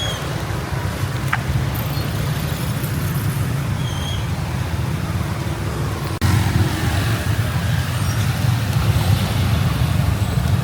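Street traffic on a rain-soaked road: a steady low rumble of engines and tyres, with a few short high squeals, jumping louder about six seconds in.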